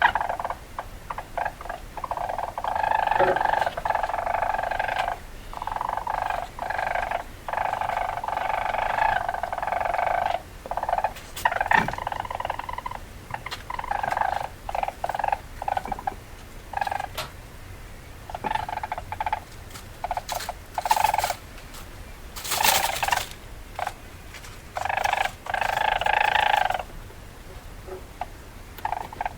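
Weasel calling: stop-start bursts of rapid, rattling chatter, from a fraction of a second to about two seconds long, with sharp clicks between them.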